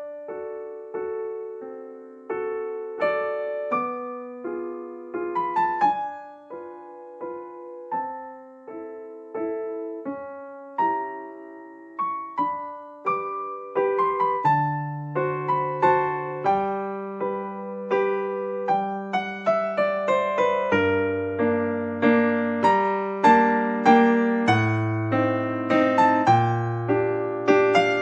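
Background piano music, a gentle melody of separate notes that decay, with a bass line coming in about halfway and the playing growing fuller toward the end.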